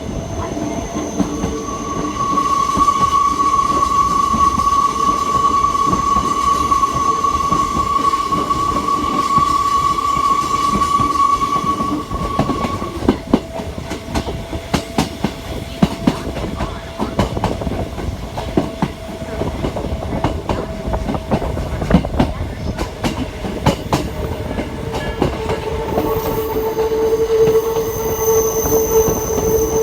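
Hakone Tozan Railway mountain train running, its wheels squealing in long steady high tones that shift pitch twice. In the middle stretch the wheels click sharply over rail joints.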